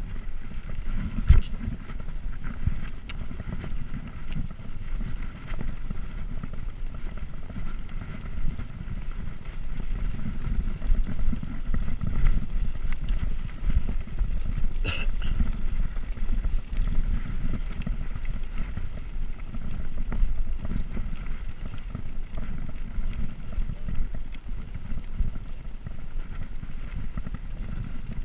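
Wind buffeting the microphone while riding a bicycle, a continuous low rumble. There is a brief high-pitched sound about halfway through.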